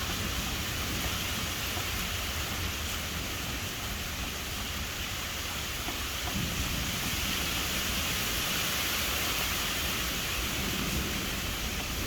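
Steady rain hiss with low, continuous rolling thunder underneath, the rumble swelling about six seconds in.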